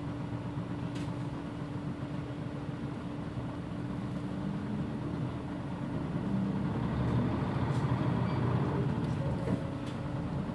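Mitsubishi PJ-MP35JM bus running, its diesel engine droning with a steady hum. The engine grows louder about six seconds in, as if pulling harder, then eases off near the end.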